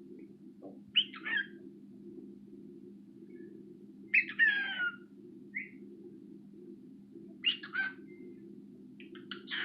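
Cockatiel calling in short, loud squawking bursts, with pitch sweeps, about a second in, at around four seconds and at seven and a half seconds, then a quick run of short chirps near the end. A steady low hum runs underneath.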